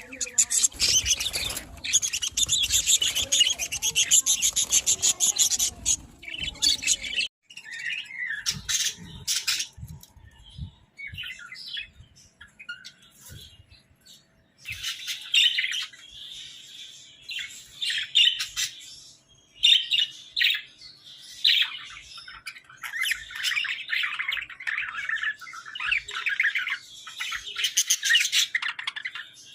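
Budgerigars chattering and warbling in fast, high chirps. The chatter is dense and continuous for the first seven seconds, breaks off abruptly into scattered chirps, then builds back into steady chattering from about halfway through.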